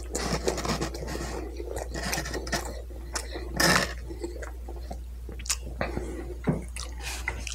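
A person chewing food close to the microphone: soft wet mouth clicks and smacks, with one louder noisy burst about three and a half seconds in, over a steady low hum.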